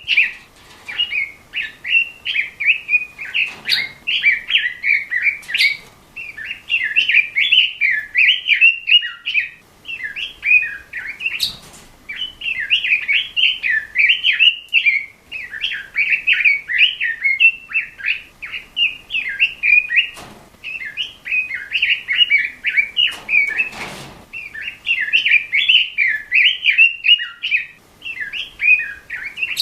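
Pekin robin (red-billed leiothrix) singing continuously: rapid, warbling phrases of a few seconds each with short pauses between them. There are a few brief clicks.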